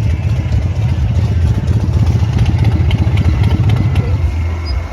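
Motorcycle engine running with a low, pulsing rumble that eases off slightly about four seconds in.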